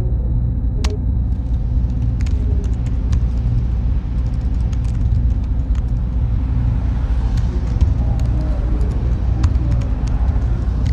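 Server room ambience: a steady low hum and rumble of machinery and cooling fans, with scattered short clicks over it.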